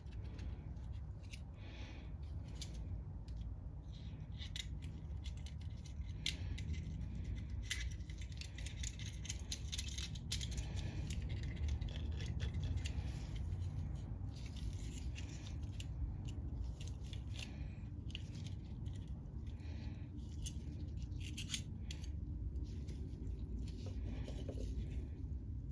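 Small metal clicks and light scraping, irregular and scattered, from hands working on the parts of a disassembled Tecumseh mower-engine carburetor during cleaning. A steady low hum runs underneath.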